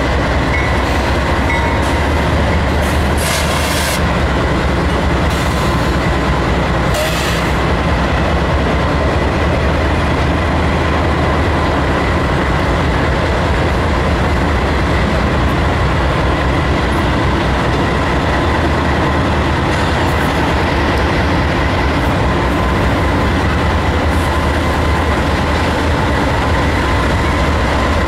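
Freight train rolling past at close range: a steady, loud rumble of rail cars with the low drone of diesel locomotives and a thin, steady high whine.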